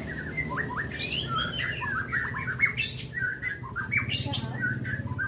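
White-rumped shama (murai batu) calling in a fast, continuous run of short sweeping notes and sharp clicks.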